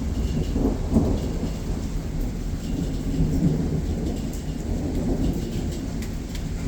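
Thunder rumbling low and continuously during a rainstorm, swelling about a second in, with faint ticks of raindrops.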